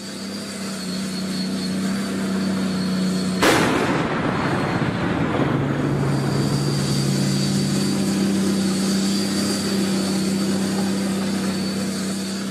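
Helicopter turbine engine running with a steady low hum and a high whine, with one sudden loud burst about three and a half seconds in.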